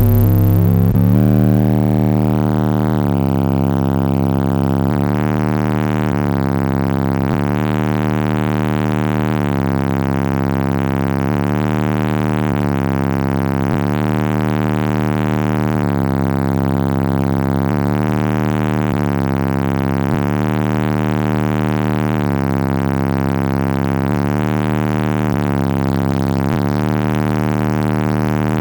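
Bass music played very loud through a car's four Power Acoustik Mofo 15-inch subwoofers, starting abruptly. Deep bass notes shift in pitch every second or two.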